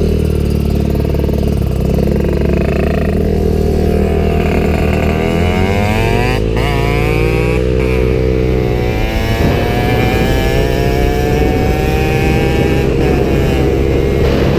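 Motorcycle engines running hard under acceleration. The pitch climbs from about four seconds in, breaks sharply twice as the gears change, falls back around nine seconds in, then runs steady again.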